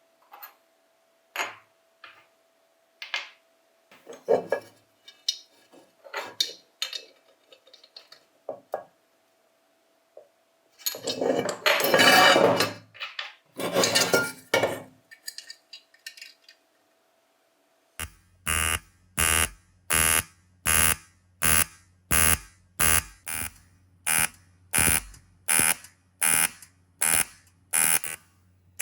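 Small metal parts clink and knock as they are handled and set down, with a couple of longer scraping, rustling stretches. Then an electric tool or machine starts a regular buzzing pulse, about three pulses every two seconds, over a steady low hum.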